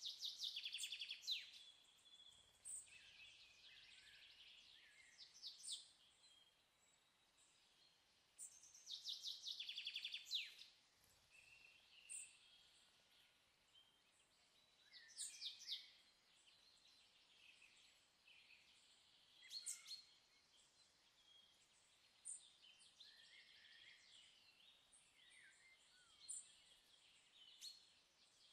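Faint birdsong: short phrases of chirps and rapid trills every few seconds over a soft hiss, the loudest near the start and again about nine seconds in.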